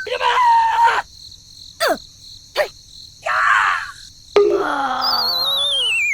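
Cartoon sound effects: a wavering whistle sliding down in pitch, the classic falling-object whistle, about five seconds in. Between it come short wobbling cartoon-voice cries and groans and two quick swishes.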